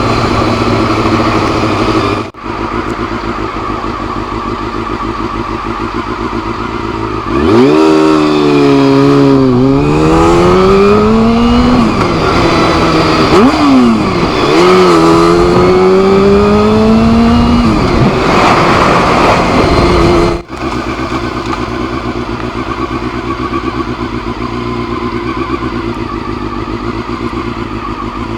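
Honda CBR400 motorcycle engine heard while riding, running steadily. About a third of the way in it gets louder and accelerates through the gears, its pitch climbing and dropping back at each of several shifts. Then it settles back to a steady cruise.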